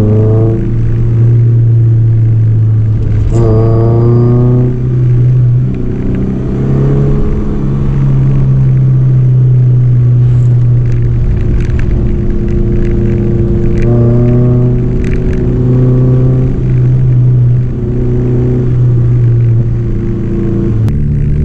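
Honda Civic Nouva's four-cylinder engine heard from inside the cabin, pulling hard in second gear on a steep climb. The revs rise and ease back several times as the throttle is worked.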